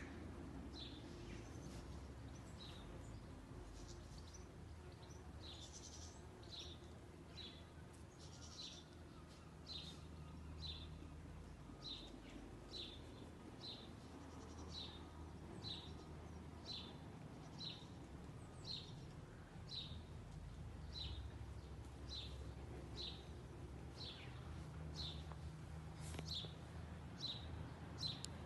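A small bird calling over and over, a short high chirp that drops in pitch, repeated about once a second, over a faint low background hum.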